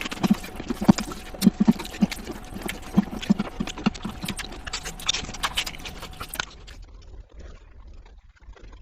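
Close-miked mukbang eating sounds: a person chewing and smacking a mouthful of fish curry and rice in irregular clicks and soft thumps. The chewing stops about six and a half seconds in.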